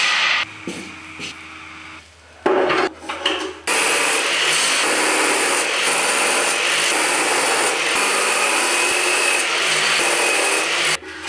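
A power tool cutting through a steel Damascus billet gives a steady, loud grinding noise. The noise starts abruptly a few seconds in and stops shortly before the end. Short clatters and knocks come before it.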